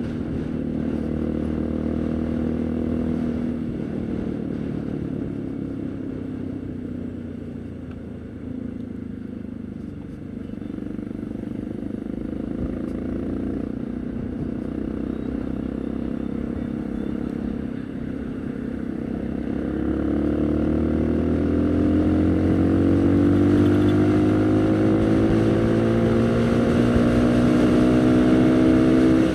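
Haojue NK150 motorcycle engine running under way. It runs steadily at first, eases off to a lower, quieter note a few seconds in, then accelerates with a rising pitch through the last third.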